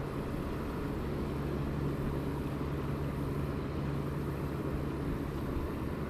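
Steady low rumble of a motor vehicle's engine, with a constant hum that fades away about five seconds in.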